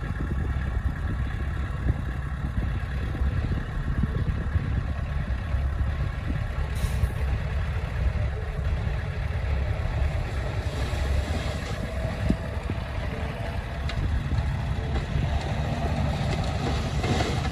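Heavy diesel engine of earthmoving equipment running with a steady low rumble, with a brief hiss about seven seconds in.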